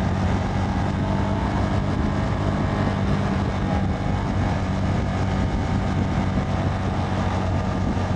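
CFMoto 300NK's single-cylinder engine running at a steady cruising speed, heard from the rider's seat with wind rushing past.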